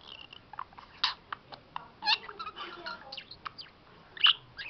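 Budgerigar warbling: a quick string of short high chirps and clicks, the loudest about a second in, at two seconds, and near the end.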